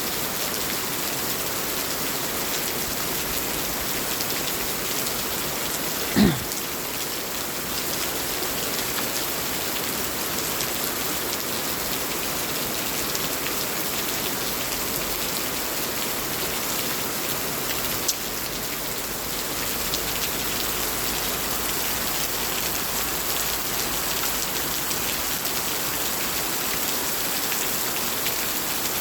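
Steady heavy rain pouring down in a storm, an even hiss of water on surfaces. About six seconds in there is one brief, loud low thump.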